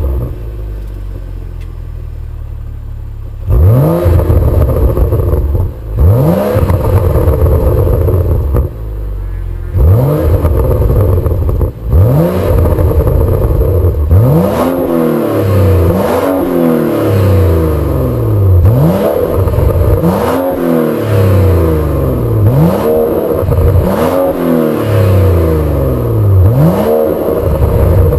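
BMW M135i engine through a BCS Powervalve stainless steel performance exhaust, idling briefly after start-up and then free-revved while stationary. There are a few separate blips at first, then a steady run of revs, each rising and dropping back, about one every two seconds.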